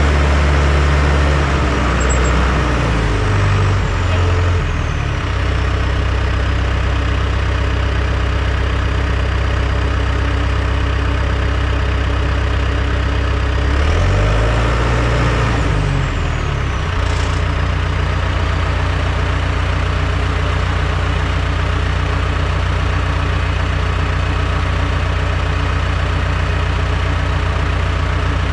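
Heavy diesel engine of earthmoving equipment running steadily. Its pitch dips and recovers twice, a few seconds in and again around the middle, each time with a thin high whine that slides down in pitch.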